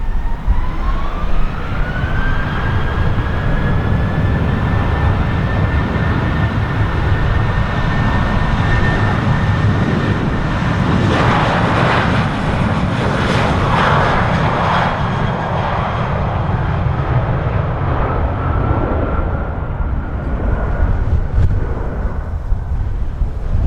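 Boeing 737-700's CFM56 turbofan engines spooling up to takeoff power, a whine rising in pitch over the first two seconds and then holding steady over a heavy roar as the jet accelerates on its takeoff roll. The roar is loudest about 11 to 15 seconds in as the plane passes, then the whine drops in pitch as it moves away.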